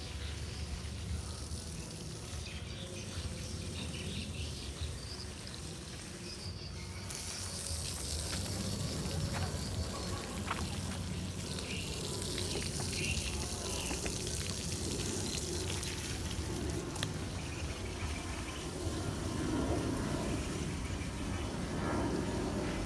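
Water pouring and trickling in a steady hiss that gets louder and brighter about seven seconds in.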